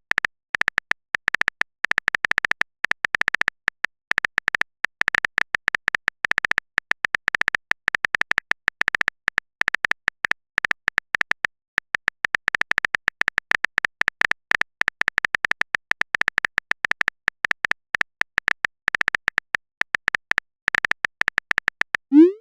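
A typing sound effect: rapid, irregular clicks in runs with short pauses between them. Near the end, a short rising swoosh.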